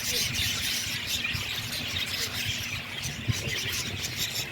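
Many small birds chattering and chirping together without pause, with a low rumble underneath and a short knock about three seconds in.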